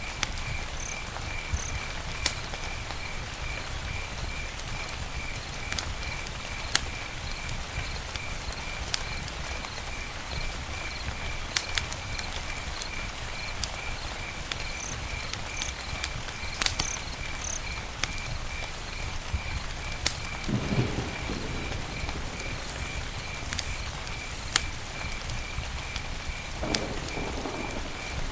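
Campfire crackling, scattered sharp pops over a steady hiss, with an insect chirping at one high, even pitch a few times a second.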